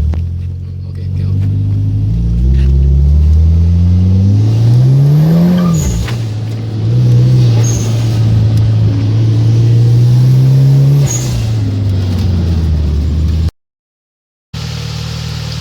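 Mitsubishi Lancer X's turbocharged 4B11 four-cylinder engine being revved: it climbs to a peak about five seconds in and drops, then is held at a steady raised speed for several seconds before falling back toward idle. The sound cuts out for about a second near the end.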